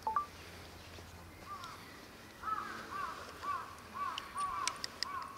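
A bird calling a quick series of short, arched notes, about two or three a second, from about halfway through, after a single call a second or so in. Faint light clicks come near the end.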